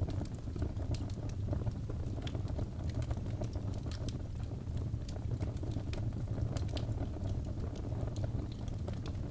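Wood fire burning in a fireplace: a steady low rumble of flames with many scattered, irregular sharp crackles and pops.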